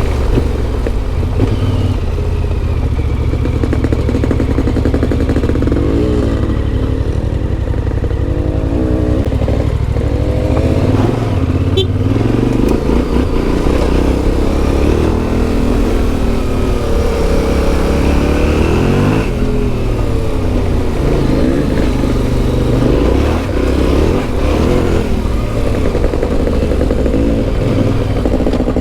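Yamaha Ténéré 700's CP2 parallel-twin engine pulling while ridden off-road, revs rising and falling as the rider accelerates and shifts, with a brief drop in revs about 11 s and again about 19 s in.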